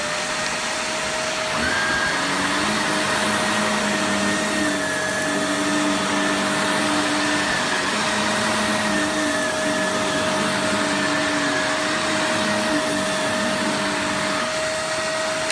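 Shark Navigator upright vacuum cleaner running at full speed while vacuuming a rug: a steady motor whine with a higher wavering tone over it. Right at the end the motor is switched off and begins to wind down.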